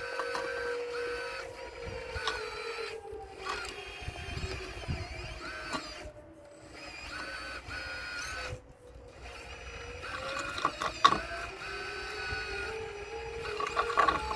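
Electric motors of a radio-controlled Caterpillar excavator model whining. A steady whine sinks slowly in pitch and rises back about ten seconds in, with shorter, higher whines cutting in and out. A few sharp knocks come near the end.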